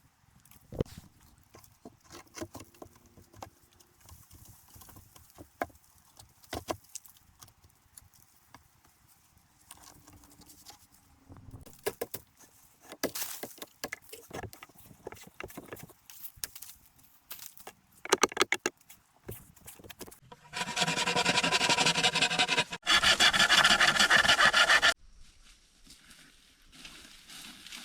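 Bamboo and wood being worked by hand: scattered knocks and taps, then two loud spells of fast rasping strokes, each about two seconds long, near the end.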